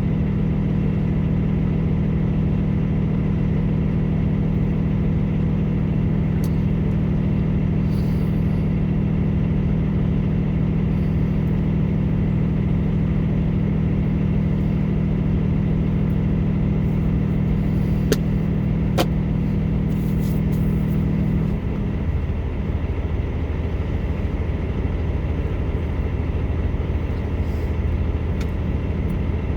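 Diesel engine idling steadily at a fast idle, then dropping about two-thirds of the way through to a lower, deeper idle.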